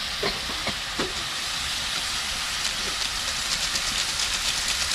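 Chicken and masala frying in a karahi over a wood fire: a steady sizzle, with a few short spatula scrapes on the pan in the first second and quicker fine crackling in the second half.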